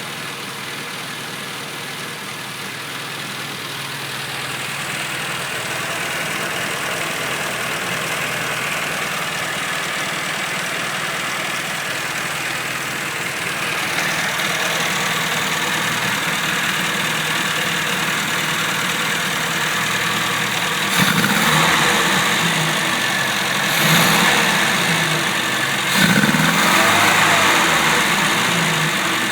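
Mini car engine idling steadily for about twenty seconds, slowly growing louder, then revved in three short blips near the end. The engine stutters when revved, the fault being shown.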